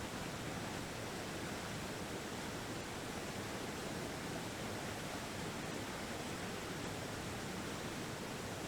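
Steady, even rushing noise spread across low to high pitches, unchanging throughout.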